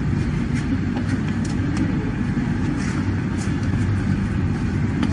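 Steady low rumble of an idling engine, with faint light ticks now and then.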